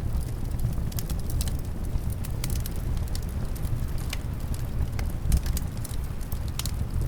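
Wood fire crackling in a fireplace, with irregular sharp pops and snaps, over a steady low rumble of winter wind.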